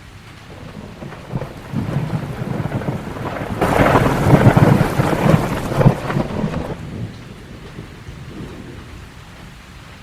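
A long roll of thunder over steady rain: the rumble builds about a second in, peaks with crackling claps in the middle, and fades away well before the end, leaving the rain hissing.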